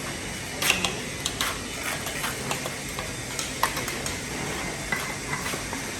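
Irregular clinks, taps and scrapes of hand tools being worked against hard building materials, over a steady background hum of activity. The sharpest clack comes just under a second in.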